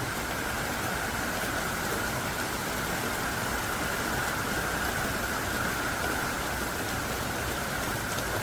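Heavy downpour: thick rain falling hard, a dense, steady hiss of drops that does not let up.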